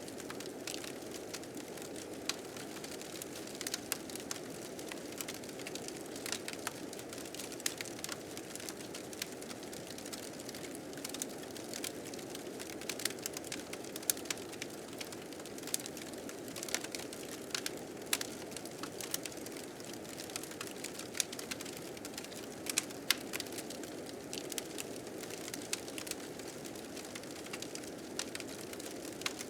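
Wood fire crackling, with irregular sharp pops and snaps, over a steady rushing blizzard wind.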